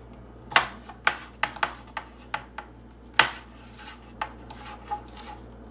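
Kitchen utensil knocking and scraping against a mixing bowl as chopped green onions go into the buffalo chicken dip: about nine irregular sharp knocks, the loudest about three seconds in.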